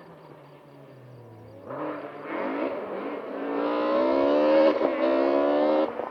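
Rally car engine at full throttle, faint at first, then loud as it comes closer, its pitch climbing and dropping back in quick steps as it shifts up through the gears. The sound cuts off suddenly near the end.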